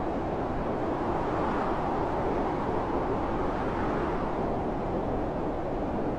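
Blizzard wind blowing in a steady, heavy rush with a slight swell and ease.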